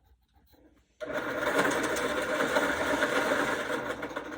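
Electric pencil sharpener running, grinding a coloured pencil: a steady motor buzz that starts suddenly about a second in and eases off near the end.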